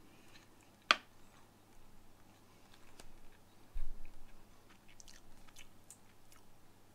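Someone chewing a mouthful of MRE chicken burrito bowl, with small crunchy ticks from rice that is hard and grainy, as if not cooked enough. A sharp click sounds about a second in, and a dull thump around the middle.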